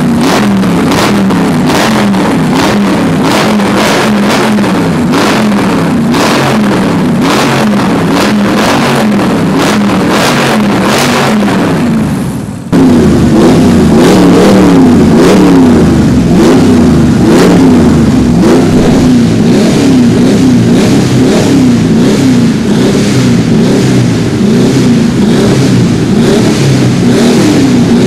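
Boss Hoss V8 motorcycle engines revved again and again, the exhaust note rising and falling about once a second. About 13 seconds in it cuts to a second, louder V8 being blipped more quickly.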